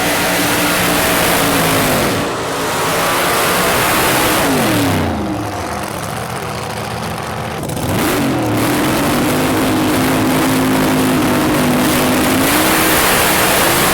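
Drag racing car engine held at high, steady revs, then dropping off about four to five seconds in, the pitch falling away; it picks up again about eight seconds in and holds high, rising a little near the end.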